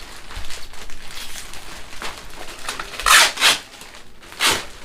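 Delivery parcel packaging rustling and crackling as it is opened by hand, with two louder rustles about three and four and a half seconds in.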